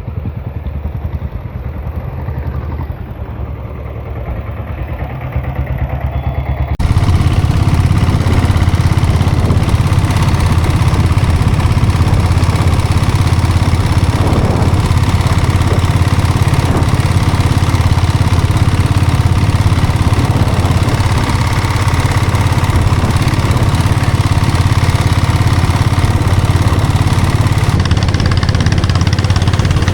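Diesel Royal Enfield Bullet motorcycle's single-cylinder Lombardini diesel engine running steadily. About seven seconds in it cuts abruptly to a louder, closer engine sound.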